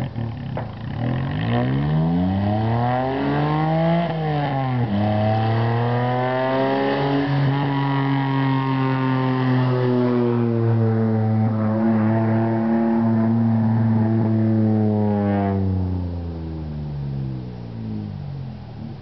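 Geo Metro's G10 three-cylinder engine with a raspy 2-inch straight side pipe from the cat back, revving up, dropping sharply in pitch about five seconds in, holding high revs for several seconds, then falling back to a low idle near the end.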